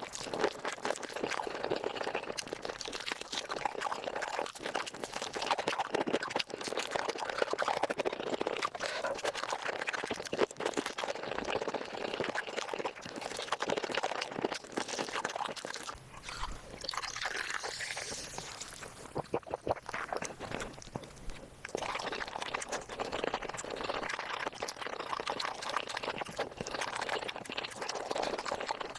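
Chewing, crunching and slurping of chicken feet, sped up fivefold so the wet mouth sounds run together into a fast, dense patter of clicks. It eases off for a few seconds past the middle.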